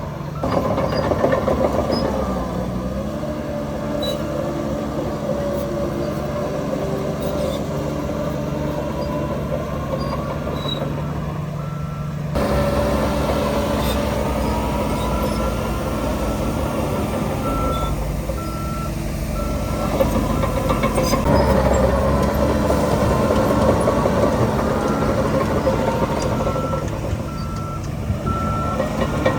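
Diesel engines of a bulldozer and dump trucks running, their pitch rising and falling as they work, while a reversing alarm sounds several runs of evenly spaced short beeps.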